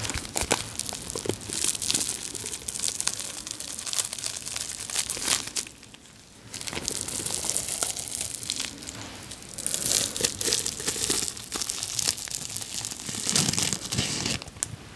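Plastic wrapping of a bath bomb being torn open and crinkled by hand, a dense irregular crackle that eases off briefly about six seconds in.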